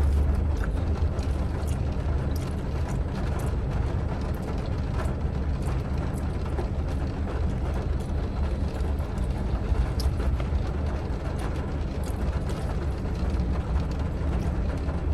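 Steady low rumble of a running vehicle, with scattered small clicks and taps.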